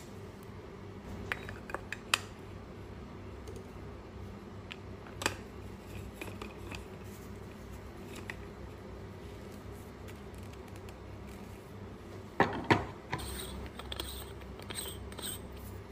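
Scattered light clicks and clinks of coffee-making parts being handled, with two louder sharp knocks about twelve and a half seconds in, over a faint steady hum.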